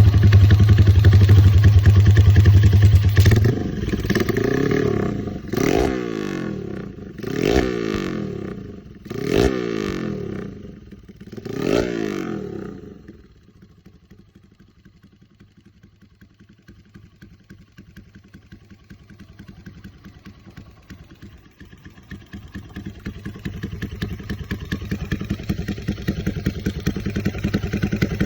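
Motorcycle engine running through an aftermarket BMS round-model muffler: a loud steady note for a few seconds, then about five quick throttle blips that rise and fall in pitch. It then settles to a quiet idle and grows louder again near the end.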